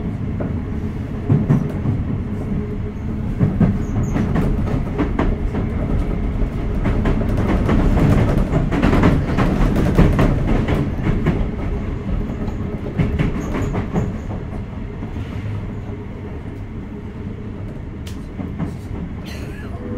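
Sotetsu 8000 series electric train running at speed, heard from inside: a steady rumble with the wheels clicking over rail joints, growing louder through the middle and easing off in the second half.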